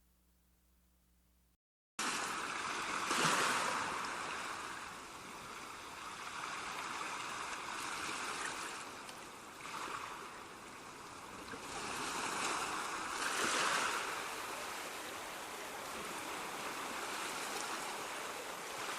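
Ocean surf washing onto a shore: a steady rush of breaking waves that swells and eases every few seconds. It starts abruptly about two seconds in, after a faint low hum and a moment of silence.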